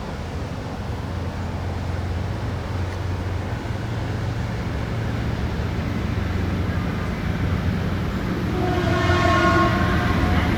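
An approaching train, its low rumble growing steadily louder, sounds its horn once for about a second and a half near the end.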